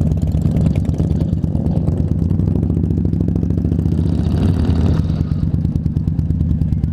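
Indian Scout Bobber's V-twin engine running at low speed with an even, rapid pulse, heard close up from the rider's own bike.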